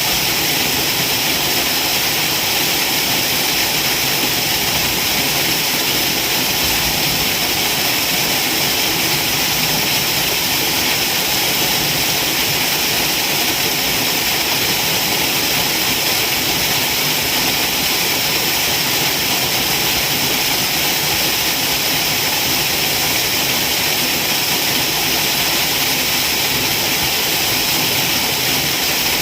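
Waterfall: falling water rushing in a loud, steady, unbroken hiss.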